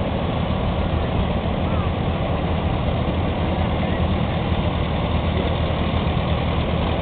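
Tractor engines running at a low steady idle with a deep, even throb, the sound holding steady throughout.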